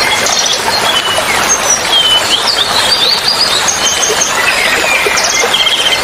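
Steady rush of running water, with several small songbirds chirping and whistling over it in quick, high notes, and a couple of short buzzy trills near the end.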